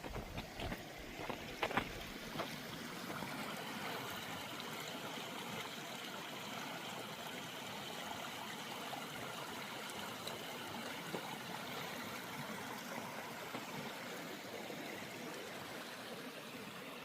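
Tumalo Creek running with a steady rushing hiss. A few footsteps on the trail come through in the first couple of seconds.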